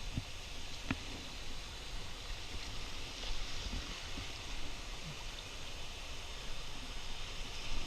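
River water rushing steadily, with a low rumble underneath and a few faint knocks.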